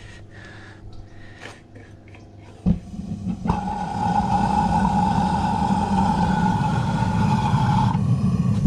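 Propane forge burner lighting with a sharp pop, then running with a steady roar and a whistling tone that drops out near the end while the roar carries on.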